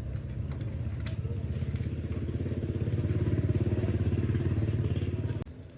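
A motor running with a fast, even low pulsing, cutting off suddenly near the end.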